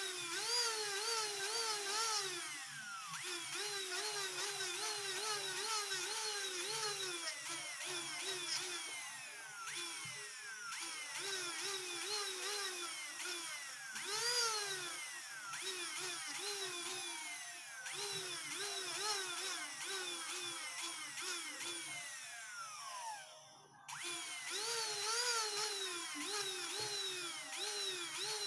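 Small jeweller's rotary tool grinding and polishing, a motor whine whose pitch falls and comes back up a couple of times a second. It cuts out briefly near the end and starts again.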